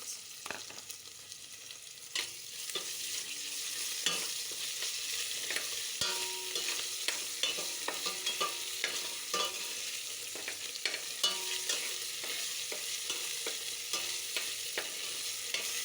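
Onions frying in hot vegetable oil in a pot, sizzling steadily while being stirred, with many small clicks and scrapes of the spoon against the pot. The sizzle gets louder about two seconds in.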